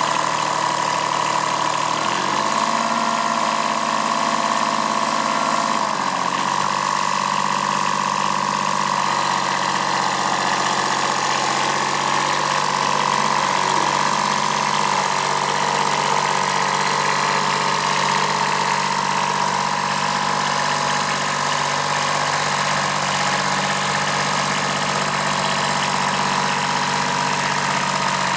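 Kubota B7001 tractor's small diesel engine running steadily, its speed picking up about two seconds in and easing back a little around six seconds in.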